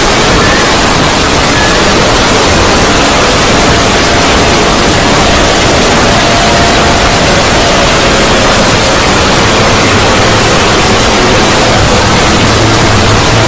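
A "void" sound effect: a loud, steady rushing hiss like static, with a faint held tone in it and a low hum that swells near the end.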